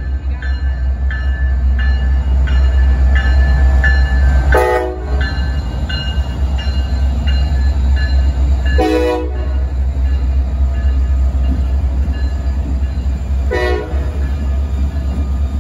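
Norfolk Southern freight train's diesel locomotives, an SD40-2 among them, rolling slowly past close by with a steady low rumble. A ringing about twice a second fades out after the first five or six seconds, and short, sharp metallic sounds come every four or five seconds.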